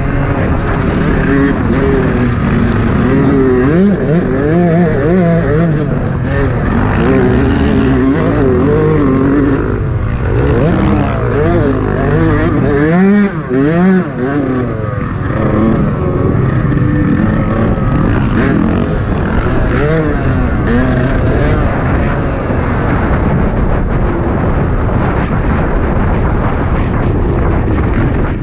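Yamaha YZ125 two-stroke single-cylinder motocross engine under hard riding, its pitch rising and falling again and again as the throttle opens and closes. The engine drops off briefly about halfway through, then picks up again.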